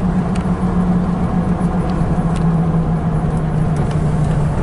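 Car engine hum and road rumble heard from inside the moving car, with a steady engine note that slowly drops in pitch.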